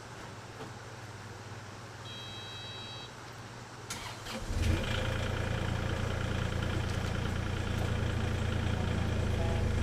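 Kubota KX040-4 mini excavator's diesel engine being started: a brief beep, then the engine cranks and catches about four and a half seconds in and runs steadily.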